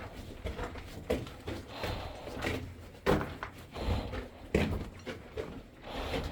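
Irregular knocks, scuffs and scrapes of someone scrambling over rock and debris in a mine working. The strongest knocks come about three and four and a half seconds in.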